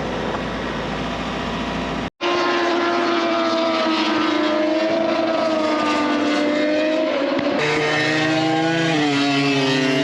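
MotoGP race motorcycle engines running at high revs, several pitched engine notes at once that slide slowly down and up as bikes pass. The sound drops out abruptly for an instant about two seconds in and shifts to a different set of engine notes near eight seconds.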